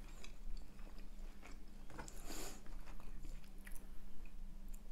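Close-miked chewing of fast food, with small wet mouth clicks and a brief rustle about halfway through, over a low steady hum.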